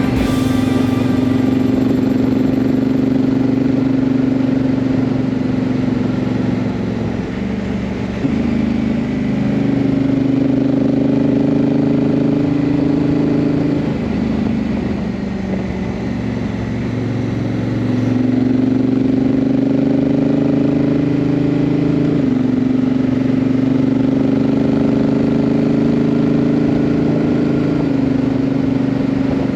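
Honda CRF1000L Africa Twin's parallel-twin engine running under way, its pitch holding steady for several seconds at a time and stepping suddenly about six times as the DCT gearbox changes gear.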